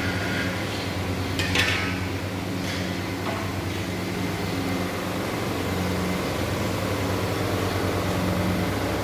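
Mawa-making machine running with a steady motor hum, with a short noisy burst about one and a half seconds in.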